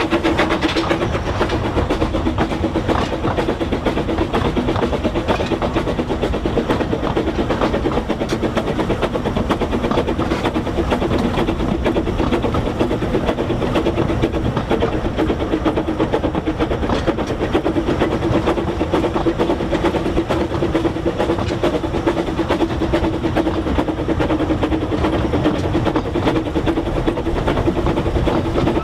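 Talyllyn Railway 2 ft 3 in narrow-gauge steam train on the move: a steady, unbroken running sound of carriages and wheels on the rails.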